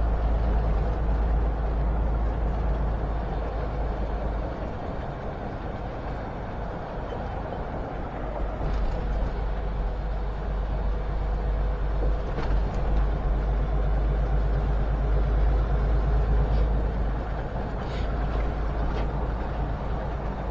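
Cab interior of a semi truck cruising on the highway: steady diesel engine drone and road noise with a heavy low rumble. The noise eases off for a few seconds and then builds again, with a few faint clicks near the end.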